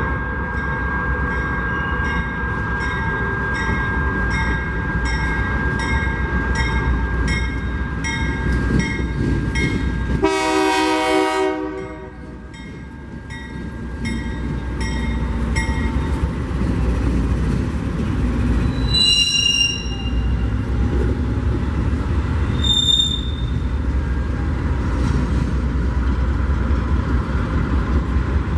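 A railroad crossing bell rings about twice a second and stops partway through. A train horn sounds once, for about a second, near the middle. After that a train rumbles by, with two brief high wheel squeals.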